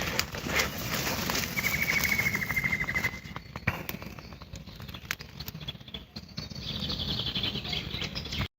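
Rustling and swishing of tall grass underfoot while walking, with a small bird's rapid trill of one repeated note for about a second and a half. A second, higher trill comes near the end.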